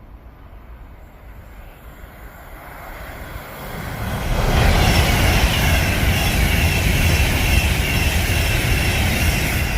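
Avanti West Coast express train passing through the station at speed without stopping: a rushing noise that builds from about three seconds in and stays loud from about four and a half seconds on, with a faint high whine above the rush.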